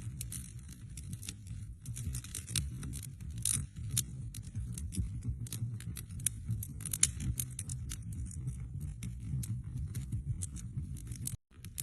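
Wood fire crackling: many irregular sharp pops and snaps over a low steady rumble. The sound cuts out for a moment near the end.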